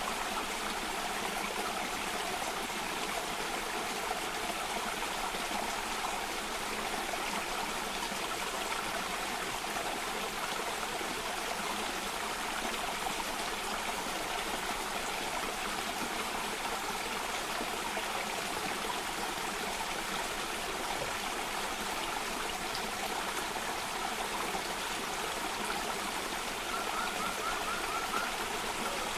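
Water of a cascading stream running steadily, with a brief rapid run of short high notes near the end.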